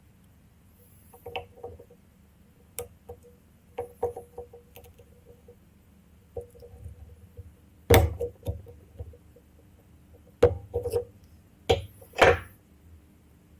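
Irregular clicks, taps and knocks of small tools and metal parts being handled while a motorcycle ignition switch is taken apart, with the loudest knock about eight seconds in and three more near the end.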